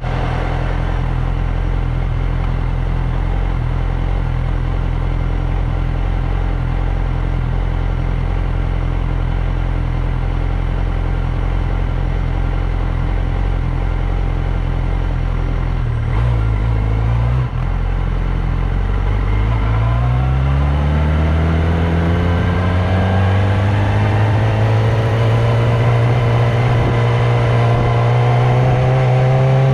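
Motorcycle engine idling steadily, then from about twenty seconds in revving up and accelerating, its pitch climbing steadily.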